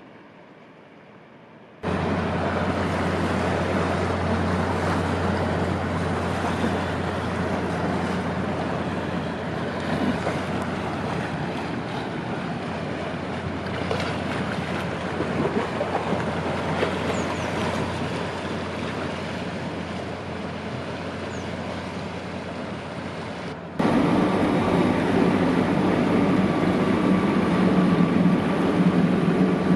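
Inland barge under way: a steady low engine hum under rushing water and wind on the microphone. It cuts in abruptly about two seconds in, and near the end switches suddenly to a louder, rougher mix with the engine's pulsing more evident.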